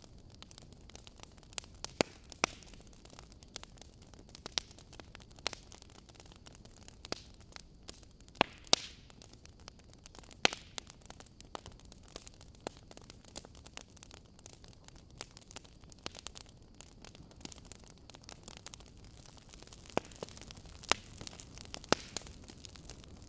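Wood fire crackling: irregular sharp pops and snaps over a steady low hiss, with a few louder snaps in the middle.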